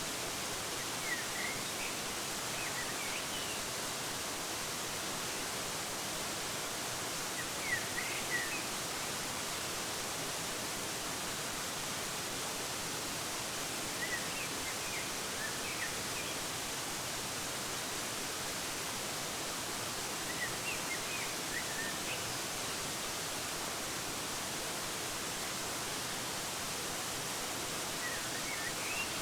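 Steady, even rushing of a waterfall. Over it, small birds give short clusters of quick chirps about every six to seven seconds.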